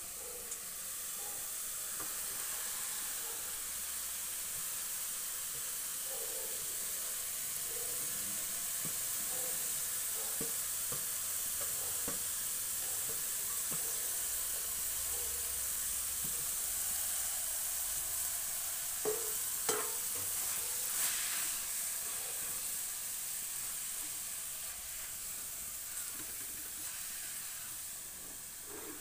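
Grated radish sizzling as it fries in a kadhai with onion, garlic and ginger masala, stirred with a steel spoon. Light scrapes and taps of the spoon on the pan, with two sharper knocks about two-thirds of the way through.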